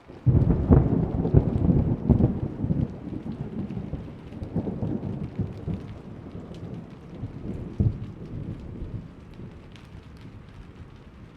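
A thunderclap breaks suddenly just after the start and rolls on as a deep rumble, swelling again twice before fading away, with steady rain and scattered drops throughout.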